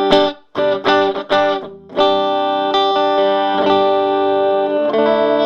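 Gibson Les Paul Studio electric guitar played through a Round Digital Sound GX-25 25-watt combo amp with a 10-inch speaker, on its clean channel with the treble turned down and the mids turned fully up. Short chord stabs for about two seconds, then chords left ringing, changing once near the end.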